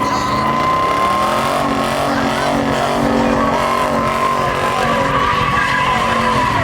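A car sliding with its tyres squealing steadily while the engine is held at high revs, rising in pitch in the first couple of seconds and then holding.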